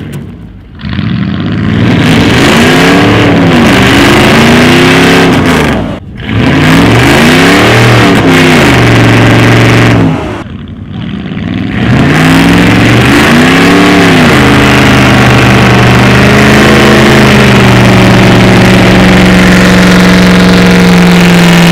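A truck engine revved hard and very loud in three long bursts, its pitch swinging up and down, with brief let-offs between them; in the last burst it holds steady at high revs. This is a vehicle straining to climb a hill while towing a stuck truck.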